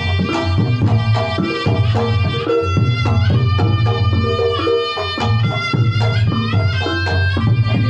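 Reog Ponorogo gamelan music: kendang drums beat a quick, steady rhythm under a wavering, reedy slompret melody, with the ensemble's gongs and percussion.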